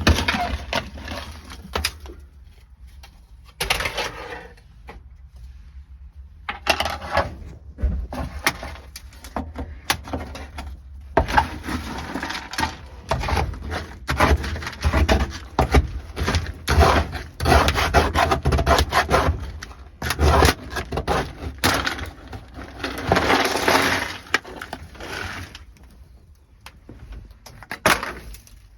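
Frozen, brittle sound-deadening mat cracking and breaking away from a car's sheet-metal floor, with sharp cracks and loose pieces clattering, in irregular bursts and with quieter gaps.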